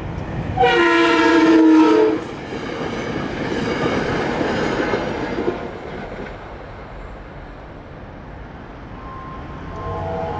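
A train's multi-note air horn sounds one long blast about a second in, then the train's rumble and wheel clatter follows and fades out after about six seconds. A fainter horn sounds again near the end.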